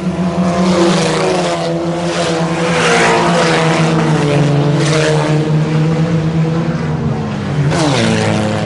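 Several IMCA Sport Compact race cars' four-cylinder engines running at speed, cars passing in turn. The loudest pass comes near the end, its engine pitch dropping sharply as it goes by.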